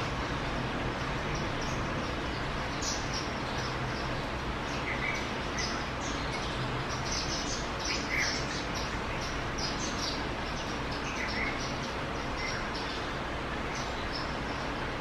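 Birds chirping: many short, high notes scattered throughout, with a few lower call notes in between, over a steady background hiss.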